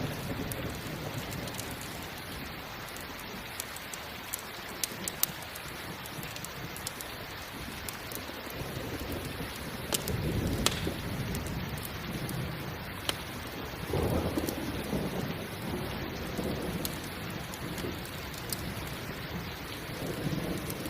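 Steady rain with low rolling rumbles of thunder, swelling about ten seconds in, again a few seconds later and once more near the end. Scattered sharp crackles and pops of a campfire sound over it.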